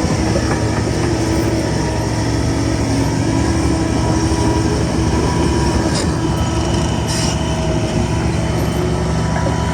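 Shantui crawler bulldozer running under load, its steel tracks squealing and clanking, with a couple of short metallic scrapes about six and seven seconds in.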